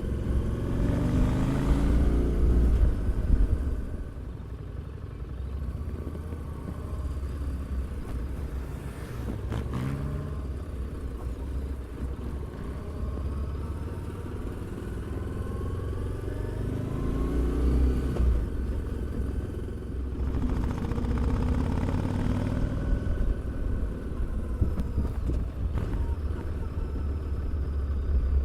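Harley-Davidson Street 750's liquid-cooled V-twin exhaust while riding, with the engine pulling up through the revs several times and easing off in between.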